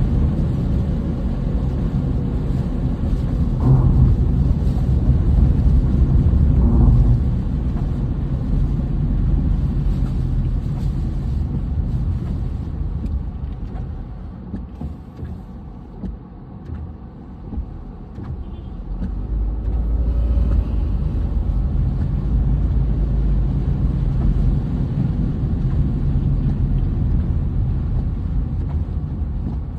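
A steady low rumble like a road vehicle running, which fades for a few seconds in the middle and then comes back.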